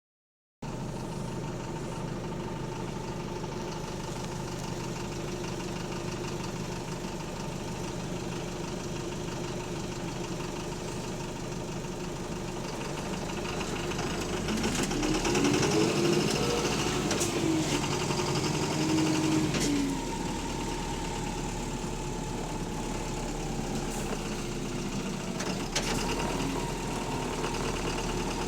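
Bus diesel engine running with a loud rod knock, the sign of a worn connecting-rod bearing. It runs steadily, then about halfway through grows louder and rises in pitch for several seconds as it revs, before dropping back.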